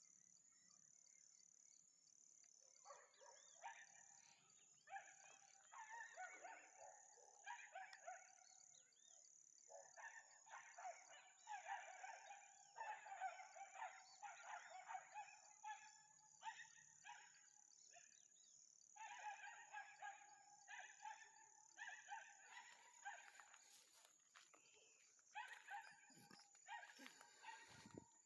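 Faint animal calls, repeated again and again, each lasting a second or two, over a steady high-pitched insect buzz.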